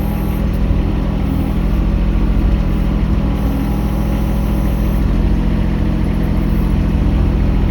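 Mini excavator engine running at a steady speed, a constant low hum.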